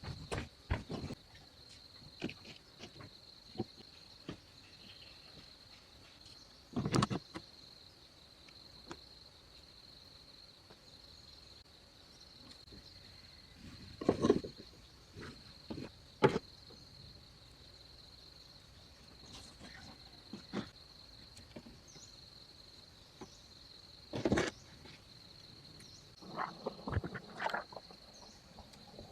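A steady, high-pitched insect trill, likely crickets, runs throughout. Over it come a handful of separate knocks and thumps, the loudest about 7, 14, 16 and 24 seconds in, with a short cluster near the end.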